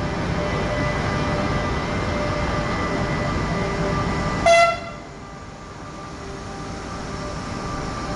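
Electric light rail train running into a station, giving one short, sharp horn toot about four and a half seconds in. Afterwards the quieter rolling noise of the passing carriages slowly builds.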